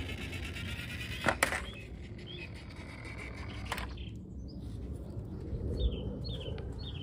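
Bird chirping in short falling notes, a couple near the start and a quick run of about five near the end, with a few sharp clicks and a steady low rumble.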